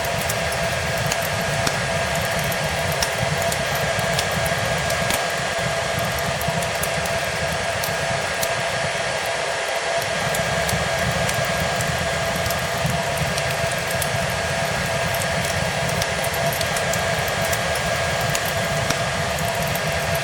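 Hair dryer blowing steadily, with a constant whine in its rushing air, mixed with fireplace crackle: small, sharp pops scattered throughout.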